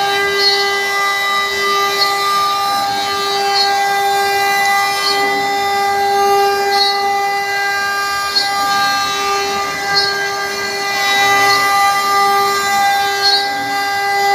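CNC router spindle running with a steady whine and overtones, its pitch wavering slightly, with faint brief swishes every second or two.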